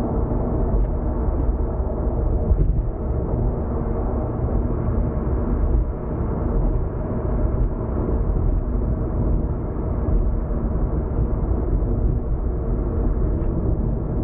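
Steady low rumble of tyre and engine noise heard inside a moving car's cabin, with a faint steady hum and a few faint ticks.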